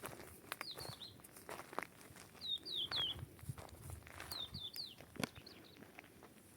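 A small bird calling in three short phrases of three or four quick, high, falling chirps each, with scattered soft clicks and steps underneath.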